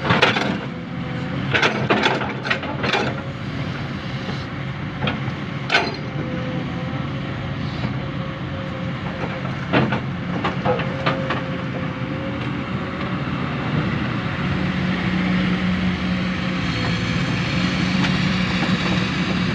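Heavy diesel construction machinery running steadily, with sharp metallic clanks and knocks now and then through the first half. Its engine note grows stronger about three quarters of the way through.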